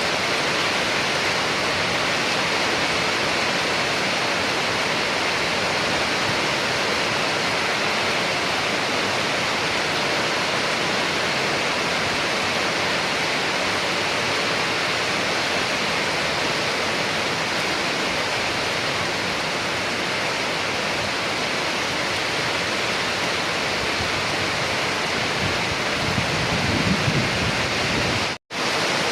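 Steady rain, an even hiss with no breaks. Near the end a brief low rumble swells up, then the sound cuts out completely for a split second and comes straight back.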